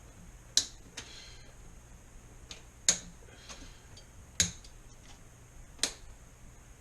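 Zip-tie tails being snipped off with cutters: a series of sharp snaps, roughly one every second or two.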